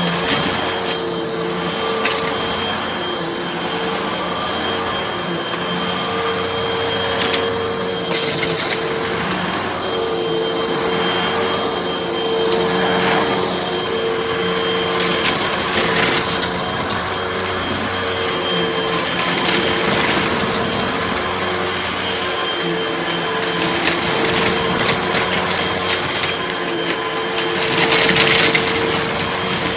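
Hoover vacuum cleaner running with a steady motor hum while sucking up light crunchy debris, with irregular crackling and rattling as the bits are pulled in.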